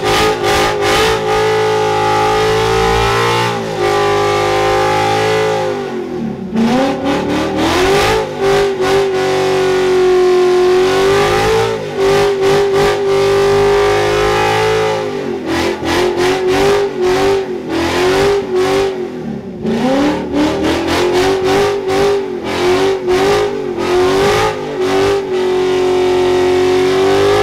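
Ford Mustang engine held at high revs through a burnout, stuttering in rapid cuts like an engine bouncing on its rev limiter. The revs drop and climb back up twice.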